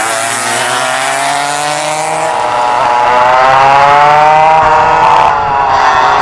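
Vintage dual rear-engine racing kart's two-stroke engines running at high revs, the pitch climbing over the first few seconds, dropping briefly near the end and climbing again as the kart accelerates.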